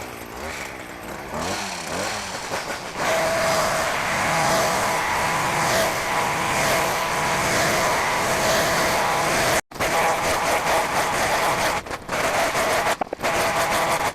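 Small petrol engine of grass-cutting equipment revving up over the first few seconds, then running steadily at high speed as it cuts grass. The sound breaks off abruptly a little under ten seconds in and again briefly near the end.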